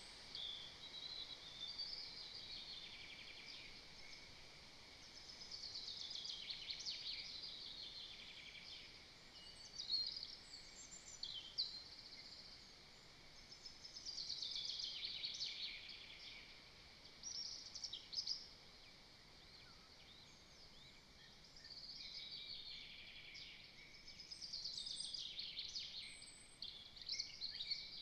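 Songbirds singing in woodland: short high trilled phrases of one to three seconds, several falling in pitch, repeated every few seconds over a faint steady hiss.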